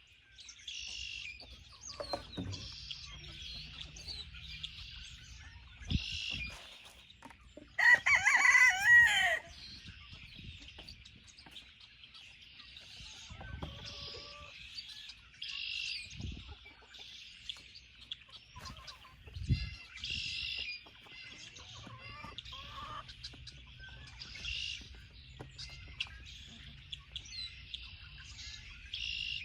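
Chickens clucking and calling in short bursts, with one loud crow lasting about a second and a half, about eight seconds in.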